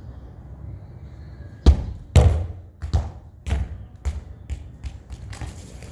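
A ball bouncing on hard ground, hitting about eight or nine times and growing fainter with each bounce, the bounces coming closer together as it settles.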